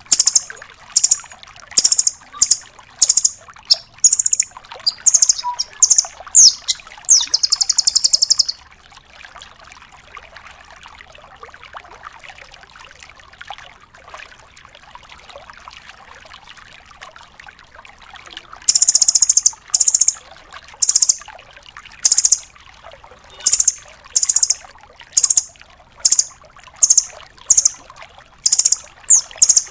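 Velvet-fronted nuthatch calling: a series of sharp, high notes about twice a second, breaking into a rapid trill about eight seconds in. The bird then pauses for about ten seconds, and starts again with another quick trill followed by the same repeated notes.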